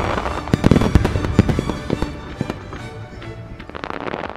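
Fireworks in a rapid barrage: aerial shells and ground devices banging in quick succession, densest in the first second and a half, then a burst of dense crackling near the end. Music plays underneath.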